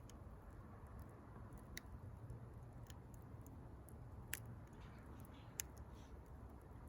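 Wood fire crackling faintly: scattered sharp pops and snaps over a low rumble, the loudest two about four and five and a half seconds in.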